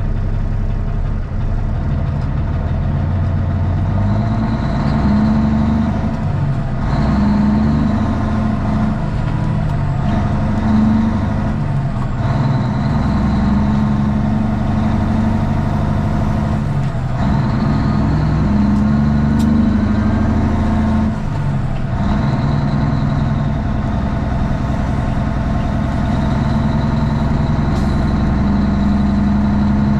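Straight-piped Cummins ISX diesel of a Kenworth T800 truck running on the road, heard from inside the cab. The engine note is steady, with brief dips and shifts in pitch every four to five seconds.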